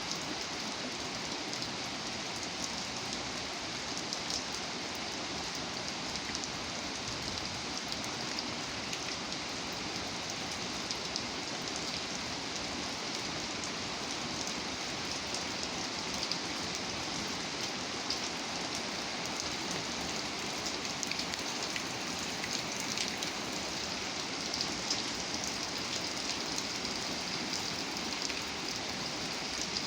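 Steady rain falling: an even hiss dotted with the fine ticks of individual drops, holding at one level throughout.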